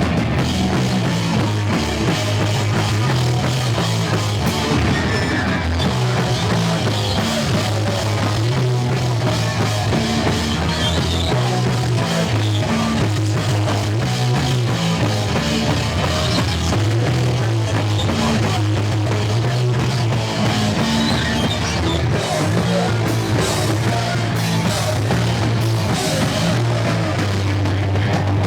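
Punk band playing live and loud: distorted electric guitar, bass and a drum kit driving through a fast song without a break.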